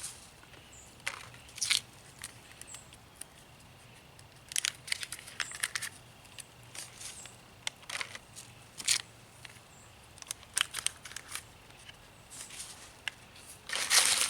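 Drink-mix packets being torn open and a plastic zip-top bag crinkling as grape Kool-Aid powder is emptied onto chicken pieces, in short bursts of rustling and crackling with pauses between them.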